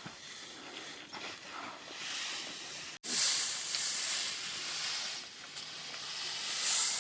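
Faint noise with a few soft clicks, then, after a brief dropout about three seconds in, a louder steady hiss, bright and high in pitch, that eases off near the end.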